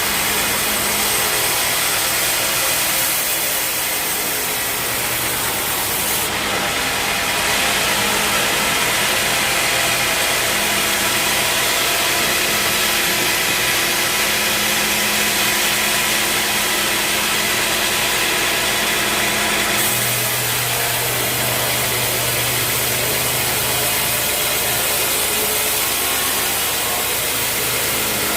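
Bandsaw sawmill running under engine power, its blade sawing through a teak log in a steady, continuous cut. The sound changes about six seconds in and again about twenty seconds in.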